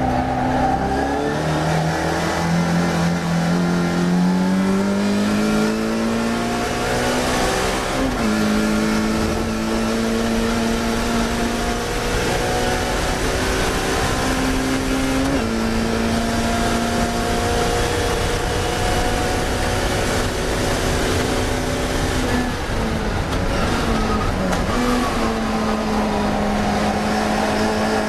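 Classic Mini race car's A-series four-cylinder engine running hard on track: the revs climb and drop sharply at upshifts about eight and fifteen seconds in, then dip and pick up again a few seconds before the end.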